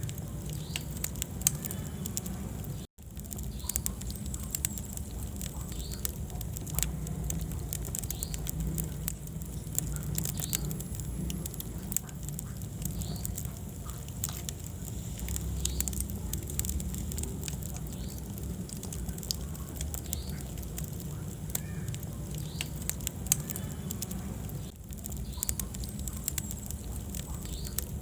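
Wood fire burning in a fireplace: many scattered sharp crackles and pops over a low, steady rumble of flames. The sound cuts out for an instant about three seconds in.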